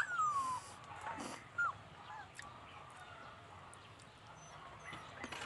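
Pet dog whining: one drawn-out falling whine right at the start and a short yelp about a second and a half in, with a sharp knock near the end.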